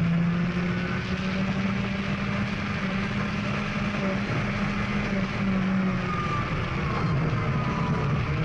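Rally car engine heard on board, pulling at a steady pitch with small rises and dips while the car runs fast on a gravel road, over a constant rush of tyre and gravel noise.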